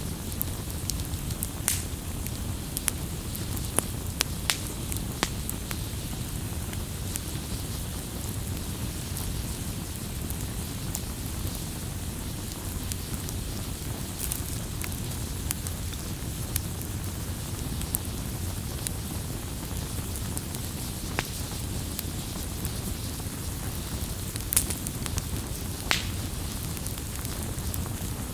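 Bonfire burning and crackling: a steady low rush of flames with scattered sharp pops, a few of them louder.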